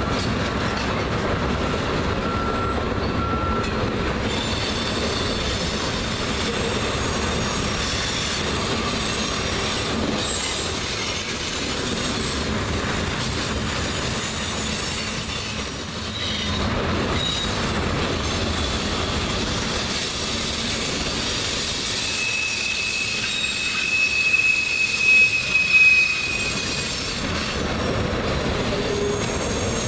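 Freight train cars (tank cars, gondolas and covered hoppers) rolling past: steady noise of steel wheels on rail, with thin high wheel squeals coming and going, loudest about 23 to 26 seconds in.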